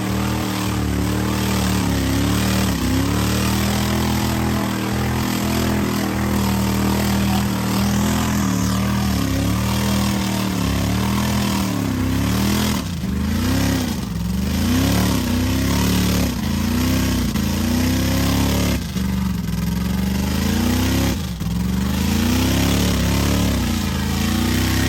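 Mud truck's engine revving hard through a mud slough race run, the revs climbing and dropping again and again, with several sudden deep drops in the second half.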